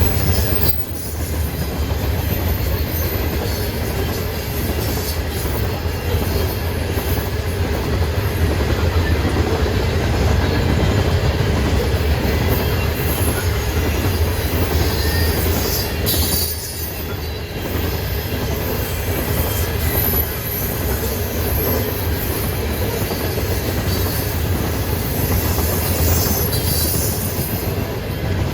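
Freight train rolling past, a steady rumble of wheels on the rails with faint, scattered high squeals from the wheels.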